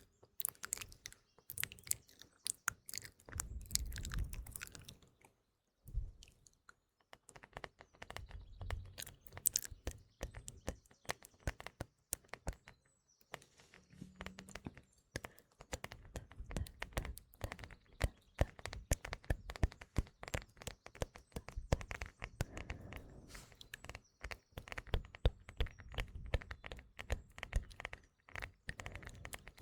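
Close-miked ASMR mouth sounds: rapid wet clicks and smacks, with added birdsong underneath. From about eight seconds in, fingertip tapping on a phone joins the mouth sounds.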